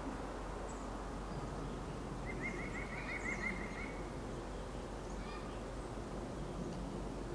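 Steady low outdoor background noise in winter woods; about two seconds in, a bird gives a quick run of about ten short high notes, roughly six a second, lasting under two seconds.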